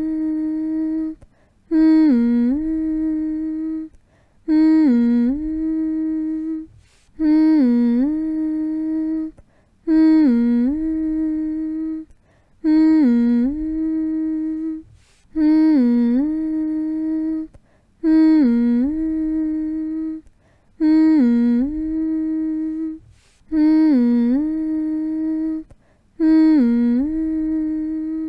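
A voice humming the same long note over and over, about one hum every two and a half to three seconds with a short gap between. Each hum starts with a brief dip in pitch and then holds one note.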